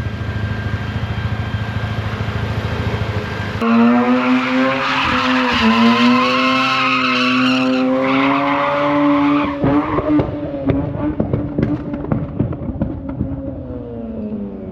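Mazda RX8's two-rotor Renesis rotary engine held high in the revs during a burnout, with tyres squealing. It cuts in suddenly about four seconds in after a low rumble, climbs slightly in pitch, then dies away and winds down with a falling pitch near the end.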